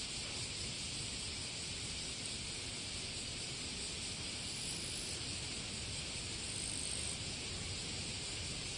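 Steady high-pitched hiss with no aircraft passing close by.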